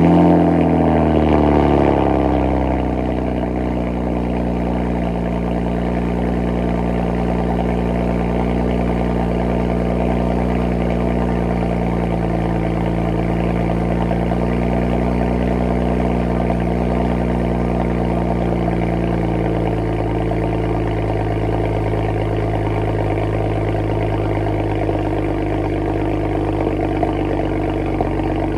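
BMW 335is's N54 twin-turbo inline-six, heard at the exhaust tips, having just fired. Its revs flare high and settle over the first couple of seconds into a steady idle.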